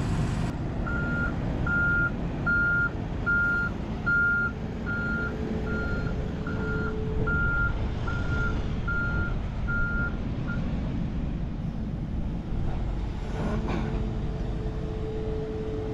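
Excavator travel alarm beeping at an even pace, about one and a half beeps a second, stopping about ten seconds in, over the steady low running of the diesel engine as the Kobelco SK210 tracks onto a trailer.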